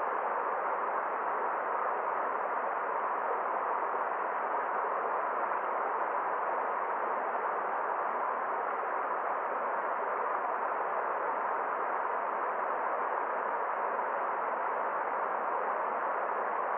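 Steady rushing water of a forest stream: an even, dull hiss with no high end and no change.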